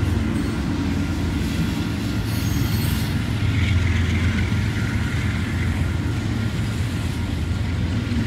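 A Union Pacific freight train's cars rolling steadily past, with a continuous low rumble of wheels on the rails and a faint high squeal about four seconds in.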